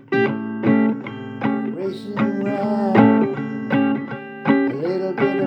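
Blues guitar playing a lead line of plucked notes and chords, with several strings bent up and down in pitch.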